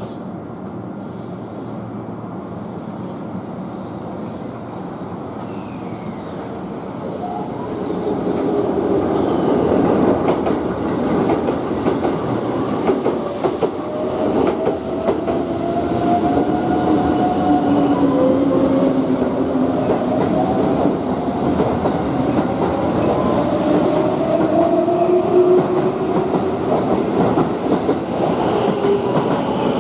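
Keihan 7000 series electric train pulling out of the platform, getting louder from about seven seconds in as it picks up speed past the camera, with wheels clattering and wavering squeals from the wheels.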